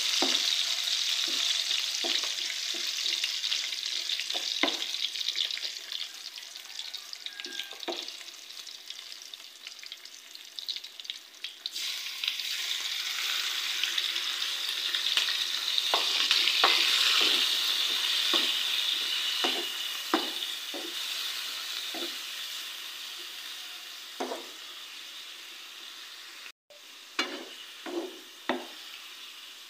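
Garlic and onion sizzling in oil in a wok, stirred with a wooden spatula that scrapes and taps against the pan. About twelve seconds in, with squid now in the pan, the sizzle jumps louder, then gradually fades.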